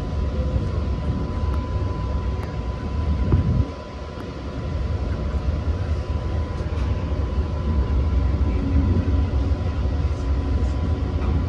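Long Island Rail Road passenger train running at speed, heard from on board: a steady low rumble of wheels on the track with a constant thin high tone over it. The rumble drops suddenly almost four seconds in, then builds back up a second or so later.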